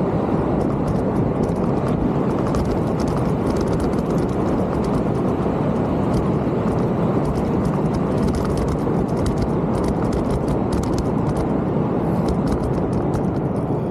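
Mountain bike being ridden along a trail: a steady rush of wind and tyre noise, with a fast, uneven patter of clicks and rattles from the bike running over rough ground.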